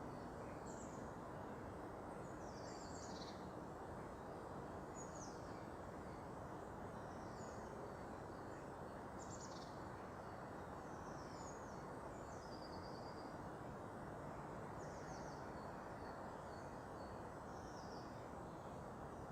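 Small birds giving short, high calls every second or two, some falling in pitch, over a steady low background rumble.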